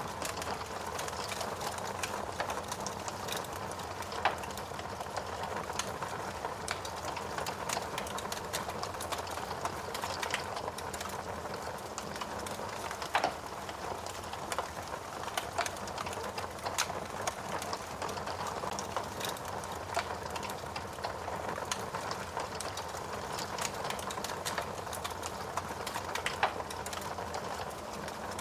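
Steady rain hiss with a wood fire crackling over it: irregular sharp pops and snaps, a few louder ones about four, thirteen and twenty-six seconds in.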